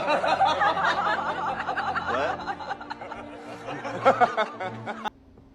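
A person laughing hard in a long run of cackles, which cuts off abruptly about five seconds in.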